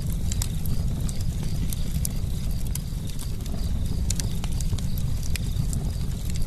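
Campfire crackling: frequent sharp pops and snaps over a steady low rumble of burning wood.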